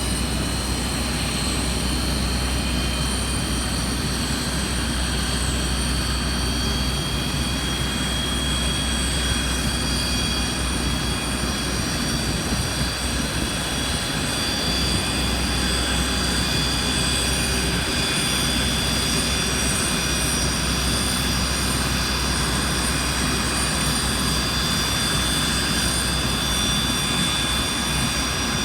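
Jet airliner's engines running steadily: a continuous low rumble under a high whine of several tones that edge slightly upward.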